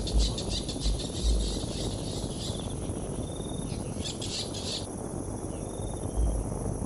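Outdoor natural ambience: rapid pulsing insect-like chirps, strongest at the start and again briefly around four seconds in, with a few short thin bird-like calls. Several low bumps on the microphone near the start and near the end.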